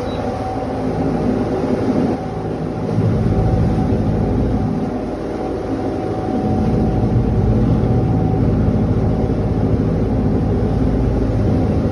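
A sailing catamaran's engine running steadily under way, a constant pitched hum, with a low rumble that swells and eases underneath.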